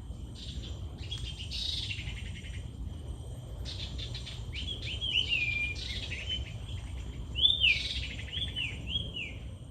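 Mixed birdsong: several birds chirping and trilling, then a series of short rising-and-falling whistled notes repeated about once a second in the second half, over a steady high thin hum and a low ambient rumble.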